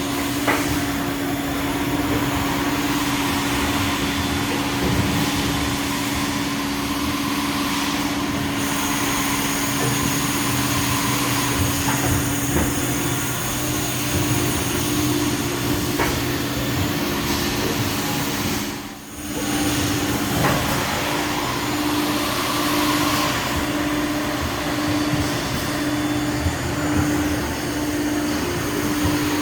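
Steady machine-shop noise with a constant hum. After about 13 seconds the hum begins pulsing on and off a little more than once a second. There is a brief dip in level near 19 seconds.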